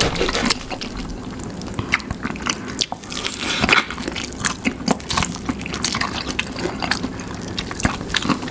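Close-up chewing and biting of sauce-coated fried chicken: many short, wet clicks and smacks of mouths and lips.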